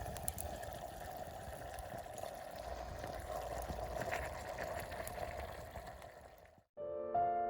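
Steady bubbling simmer with faint crackles, typical of a sauce simmering in an iron frying pan over a wood fire, fading out about six and a half seconds in. Soft piano music starts near the end.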